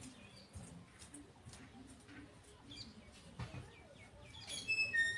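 Quiet background with faint scattered bird chirps and a few light clicks, and a brief high whistle-like tone just before the end.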